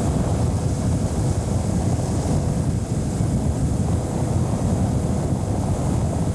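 Motorboat engine running steadily underway, with wind buffeting the microphone.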